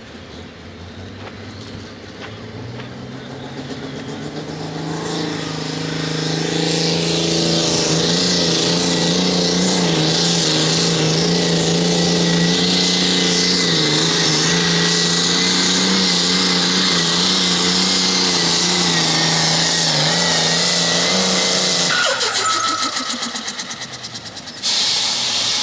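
Light limited super stock pulling tractor's engine building up and then running hard at full throttle, steady and loud with a thin whine on top. About 22 s in it drops off and winds down, and a sudden hiss breaks in near the end.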